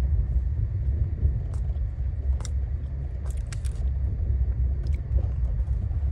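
Steady low rumble of a moving passenger train, heard from inside an AC coach, with a few faint light clicks.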